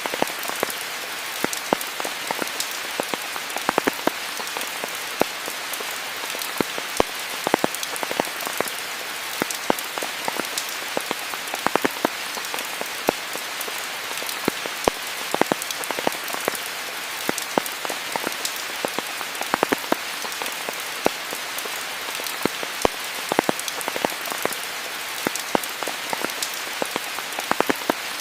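Steady rain falling on foliage, a continuous hiss with many distinct nearby drops striking at irregular moments.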